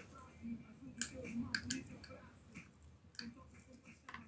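Small metal parts and tools clicking and clinking now and then while a Wahl Senior hair clipper is worked on with its casing open.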